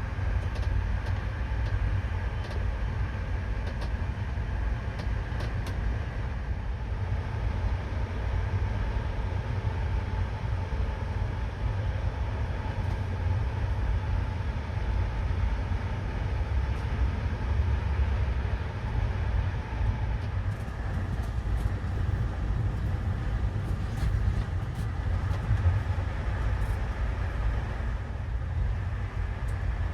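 Passenger train running: a steady low rumble with faint scattered clicks.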